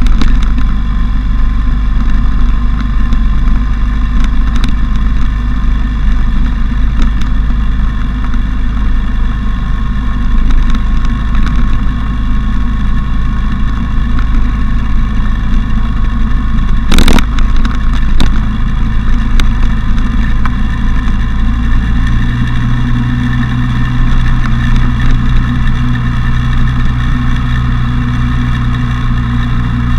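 Motorcycle engine running steadily while the bike is ridden. About two-thirds of the way through, the engine note changes pitch, and there is one sharp knock a little before that.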